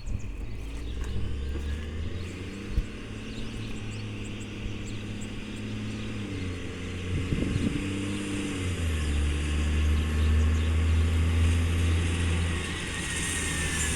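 Diesel engine of a garbage truck with an exhaust leak, running steadily; its pitch steps up about six seconds in and shifts again around nine seconds. A single sharp click about three seconds in.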